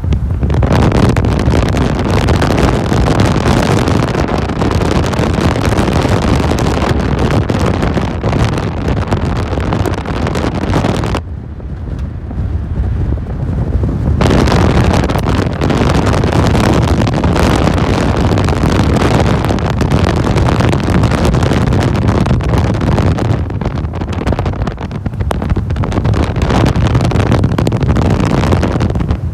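Heavy wind buffeting the microphone in an open Mahindra Roxor driven without a windshield on a dirt road, with the vehicle's running and road noise underneath. The wind eases for about three seconds near the middle, then comes back.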